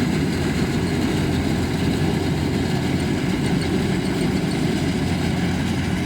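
Kubota rice combine harvester's diesel engine running steadily.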